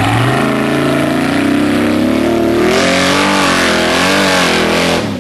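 Mud-bogging truck engine revving hard under load, its pitch climbing and wavering as the wheels spin, with a rush of noise joining about halfway through; it drops off suddenly near the end.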